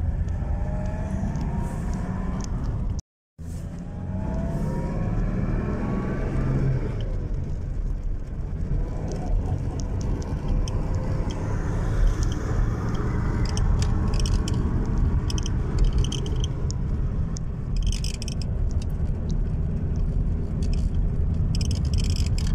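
Small classic car's engine heard from inside the cabin, its note rising as the car pulls up through the gears in the first seven seconds, then settling into steady engine and road noise while cruising. The sound cuts out for a moment about three seconds in.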